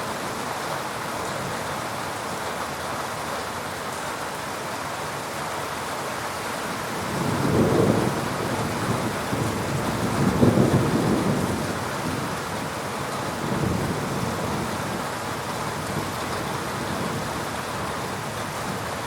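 Steady heavy rain falling, with rolling thunder that swells up about seven seconds in, rumbles louder again around ten seconds and dies away a few seconds later.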